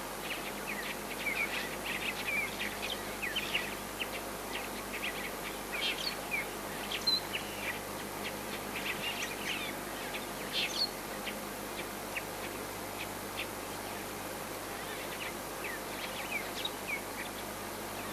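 A flock of Cape glossy starlings chattering: many short chirps and whistles, busiest in the first half, thinning out, then picking up again briefly near the end.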